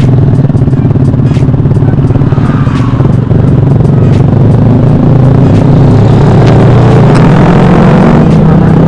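Motorcycle engine running through a loud exhaust, holding a steady low note that shifts slightly in pitch partway through.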